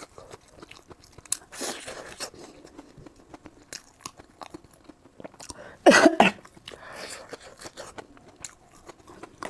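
Close-miked eating: a person biting into and chewing crunchy food, with many small sharp crunches and one louder burst about six seconds in.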